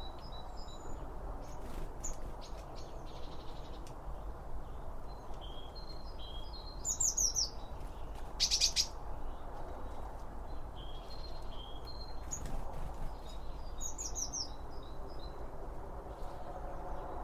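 Songbirds chirping: short repeated chirps, with quick falling trills about seven and fourteen seconds in and a sharp call in between, over a steady low outdoor rumble.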